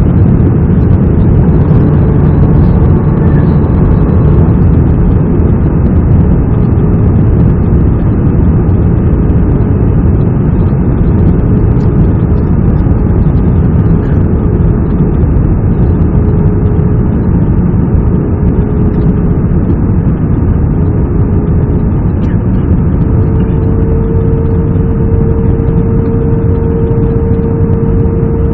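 Airbus A320 in flight on approach: a steady drone of jet engines and rushing air, with a faint whine that rises slightly in pitch and grows louder about 23 seconds in.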